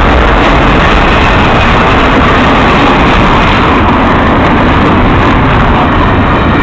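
Canadian Pacific intermodal freight train running past, its cars giving a loud, steady rolling noise of steel wheels on rail.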